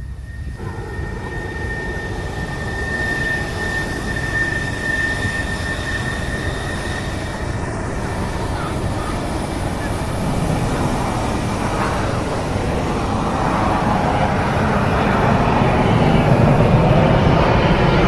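Airliner on landing approach, its engine rumble building steadily louder as it comes closer. A thin high whine fades out around the middle.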